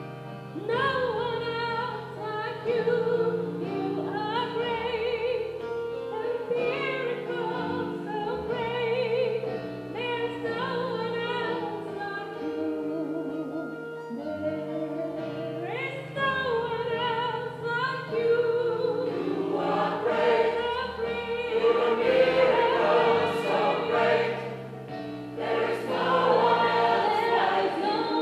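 Gospel choir singing a song, many voices together over held low notes that change in steps.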